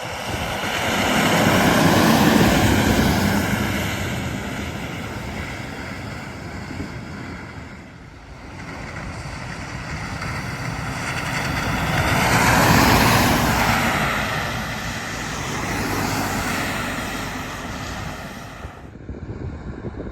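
Heavy trucks passing by on a highway: tyre and engine noise swells and fades as each goes past, loudest about two seconds in and again about thirteen seconds in, with a smaller pass near sixteen seconds. A whining tone bends down in pitch as each truck goes by.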